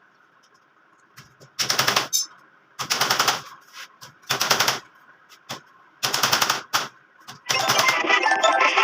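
A power tool running in four short rattling bursts of about half a second each, with quiet gaps between them; background music comes in near the end.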